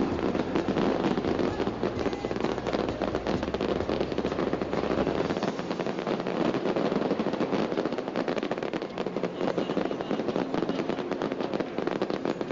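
Fireworks crackling: a rapid, unbroken run of small sharp bangs, with a low rumble underneath that stops about five seconds in.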